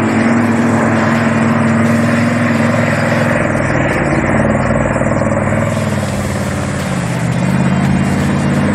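Engine of an off-road race vehicle running, holding a steady pitch, then dipping and picking up again near the end.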